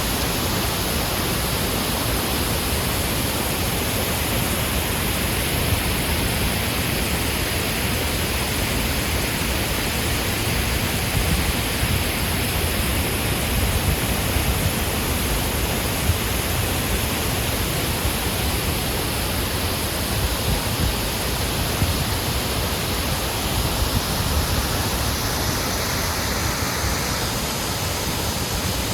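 Artificial waterfall pouring down a former quarry cliff face: a steady, loud rush of falling water.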